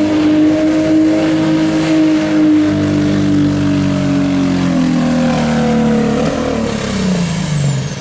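Diesel pickup engine at full throttle, hauling a pulling sled under heavy load at a steady high pitch. Over the last few seconds the engine winds down as the throttle comes off at the end of the pull.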